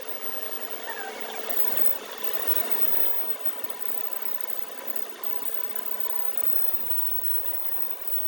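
A machine motor running steadily, a constant hum with a steady whine.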